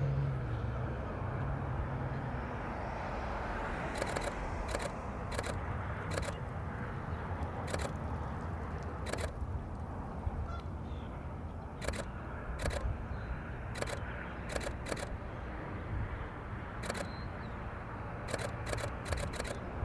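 Canon R5 camera shutter clicking about sixteen times, single shots and quick runs of two to four, over a steady hum of traffic.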